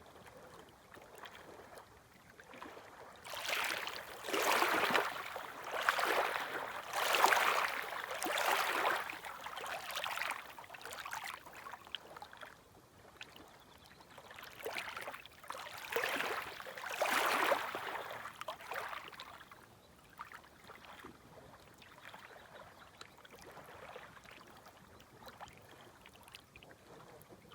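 Small, gentle waves washing in at the shoreline. A run of several washes swells about three seconds in and lasts until about eleven seconds, a second group comes around fifteen to nineteen seconds, and only a low wash is left near the end.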